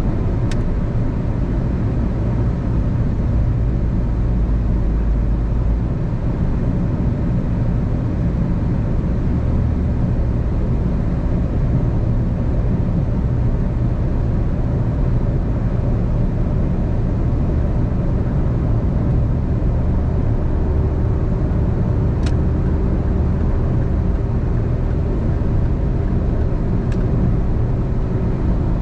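A car driving steadily on the road: a continuous low rumble of tyre and road noise with a faint engine hum, and a few faint clicks.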